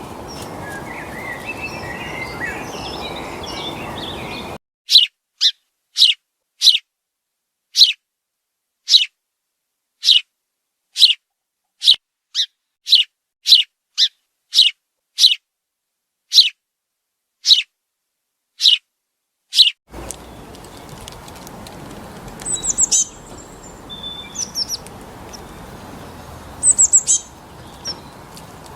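Wild bird calls from three recordings in turn: first a jumble of quick chirps over background hiss, then a single sharp, high, falling chirp repeated about once a second against silence for some fifteen seconds, then a few brief high falling notes over hiss.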